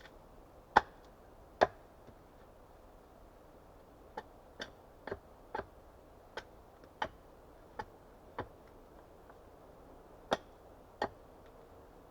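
An axe striking wood in separate sharp knocks: two hard blows about a second in, a run of lighter, quicker strikes in the middle, and two more hard blows near the end.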